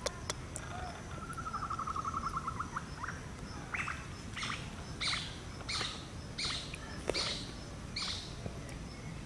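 Birds calling: a fast trill about a second in, then a run of about seven short, sharp calls, each falling in pitch and spaced under a second apart. Faint insect chirping runs underneath.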